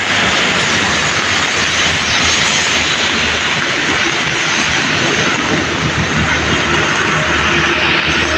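Sea surf and rain making a steady, loud rushing noise.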